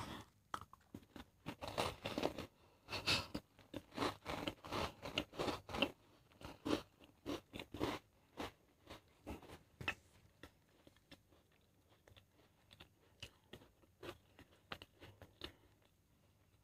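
A person chewing a mouthful of crunchy biscuits: a quick run of crisp crunches that thins out to fainter, sparser ones after about ten seconds.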